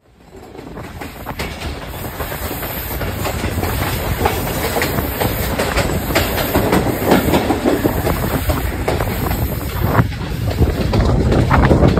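Passenger train running on the rails, heard from a coach window: a steady rumble with wheels clicking over the rail joints. It fades in over the first two seconds.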